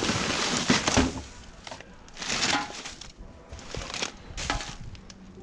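Plastic bin bags being rummaged through by hand, rustling and crackling in several bursts, the loudest and longest in the first second and shorter ones at about two, four and four and a half seconds.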